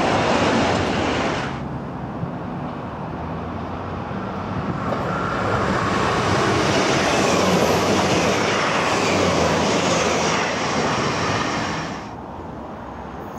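Container freight wagons rolling past on the rails. After about a second and a half, a Class 159 diesel multiple unit approaches and passes, its underfloor diesel engine and wheels growing louder and then easing. Near the end the sound drops abruptly to a quieter, more distant train.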